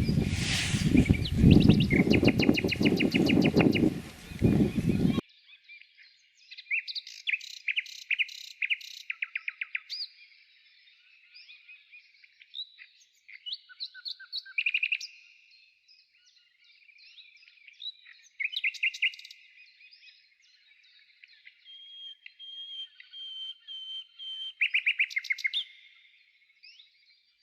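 Songbirds chirping and singing fast trills in repeated phrases with short pauses. For the first five seconds they sit over a loud low rumbling noise that cuts off suddenly.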